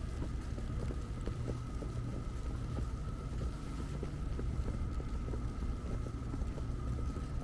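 Downtown street ambience: a steady low rumble with a thin, steady high tone above it and scattered light ticks.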